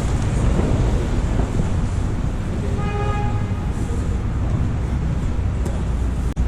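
A vehicle running with a steady low rumble. About three seconds in comes a brief, horn-like pitched tone lasting about a second, and the sound drops out for an instant near the end.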